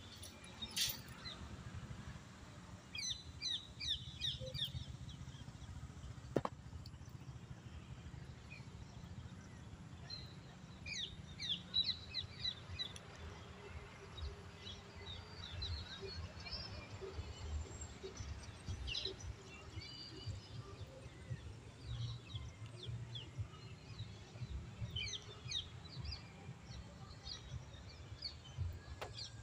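Small birds chirping, many short high calls scattered throughout, over a low outdoor rumble. There is a single sharp click about six seconds in.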